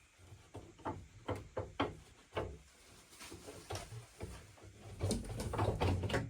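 Knocks, bumps and thuds of heavy wooden layout sections being handled and moved, with low footfall-like thumps. They come irregularly a few times a second and get denser and loudest about five seconds in.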